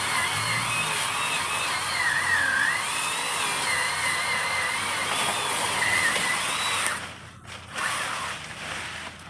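A power saw running as it cuts tree branches. Its motor whine wavers up and down in pitch under load, and it stops about seven seconds in.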